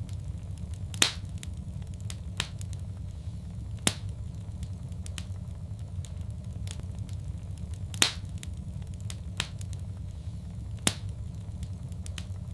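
Wood fire crackling in a fireplace: scattered sharp pops, the loudest about a second in and again near eight seconds, over a steady low rumble of the burning fire.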